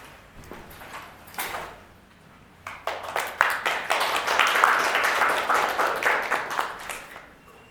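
Audience applauding, starting about three seconds in after a few scattered knocks and dying away near the end.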